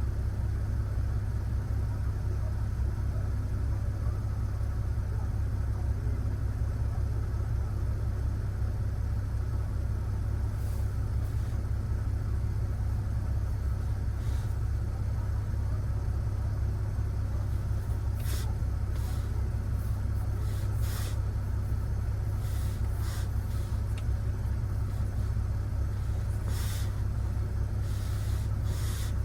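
BMW 540i's straight-piped, catless B58 turbocharged inline-six idling with a steady low drone, heard from inside the cabin. Occasional light clicks come in the later half.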